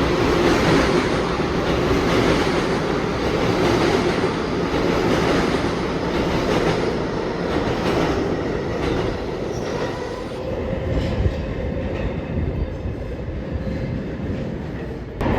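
New York City subway train running through an underground station: a steady rumble of steel wheels on rail that eases off in the second half, with a faint squeal of wheels. The sound changes abruptly just before the end.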